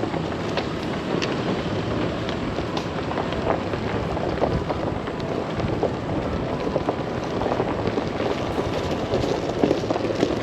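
Chevy Colorado ZR2 AEV Bison pickup driving on a gravel trail. Its tyres make a steady crunching noise, with loose stones clicking and ticking against the truck all through.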